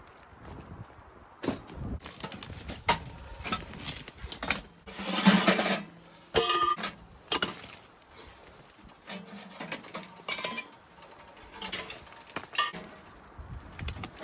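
Irregular metallic clinks and knocks of camping gear being handled during tent setup, with a longer, louder noisy burst about five seconds in.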